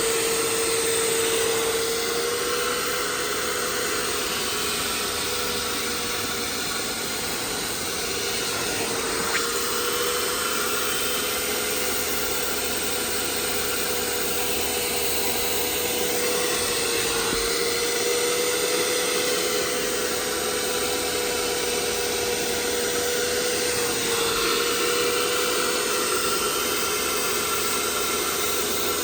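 A small electric blower or suction motor running steadily: a constant whine over rushing air, its pitch wavering slightly a few times.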